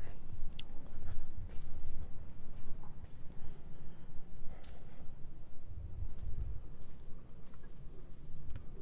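Steady, unbroken high-pitched chirring of crickets, over a low rumble.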